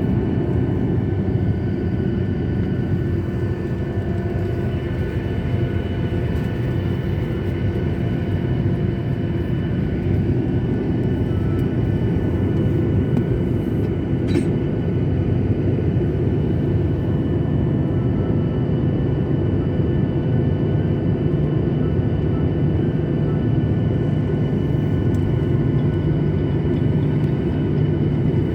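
Jet airliner heard from inside the cabin: a steady low engine rumble with several steady whining tones over it, growing slightly louder partway through, and one brief click about halfway.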